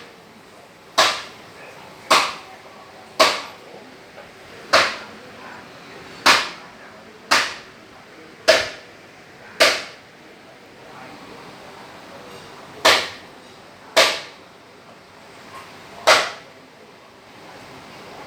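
About eleven sharp snaps or taps, roughly a second apart with a longer pause in the middle, each dying away quickly.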